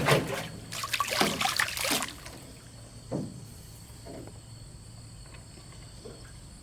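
Water splashing and sloshing in two loud bursts over the first two seconds, then a single knock about three seconds in and a couple of fainter ones.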